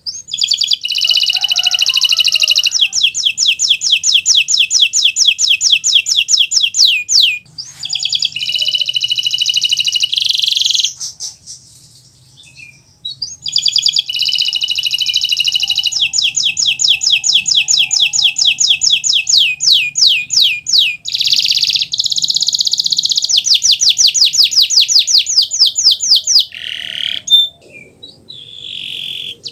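Kenari Nusantara canary singing: long, loud phrases of fast trills and rolls, some runs slowing into separate notes at their ends, with a pause of about two seconds near the middle.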